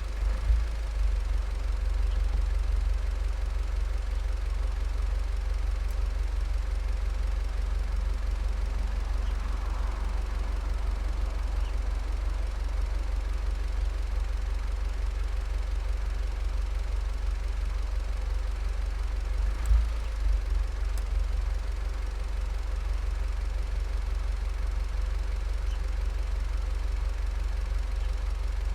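Volkswagen Golf 7 GTI's turbocharged 2.0-litre four-cylinder running steadily at an even, low engine speed through an aftermarket Cox exhaust, a deep constant rumble. A brief louder pulse comes about two-thirds of the way through.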